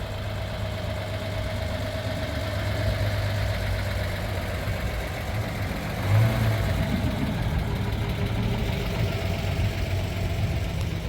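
A motor vehicle engine idling steadily, with a brief louder swell about six seconds in.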